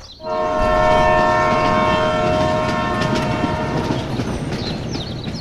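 A multi-tone horn sounds one long steady chord for about four seconds over a rattling clatter. The chord fades out near the end while the clatter goes on.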